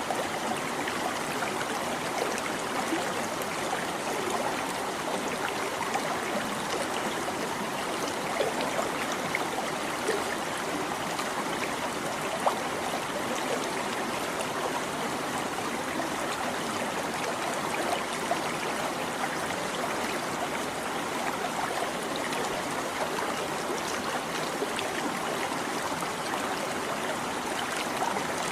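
Small stream babbling and trickling over stones, a steady rush of water with many small splashes and gurgles.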